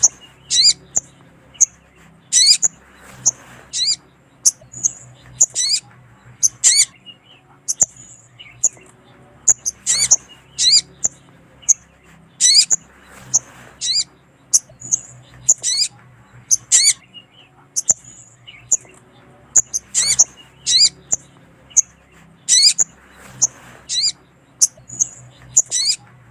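Sogon (sogok ontong, little spiderhunter) calling: sharp, high, sweeping chirps, repeated every second or two and often in quick pairs or groups. Offered as a female's call to draw the male.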